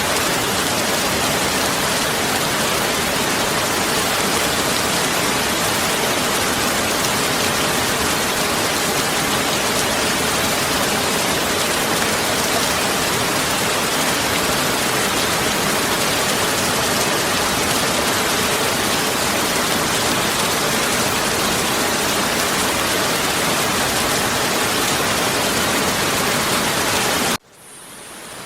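Heavy rain pouring steadily as a dense, even hiss. About a second before the end it cuts out abruptly, then swells gradually back in.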